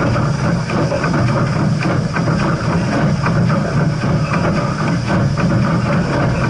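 Steam train running on the rails: a steady, loud rumble with a quick, irregular clatter of wheels and running gear.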